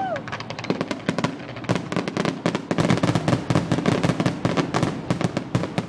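Aerial fireworks going off in quick succession, a dense run of bangs and crackles.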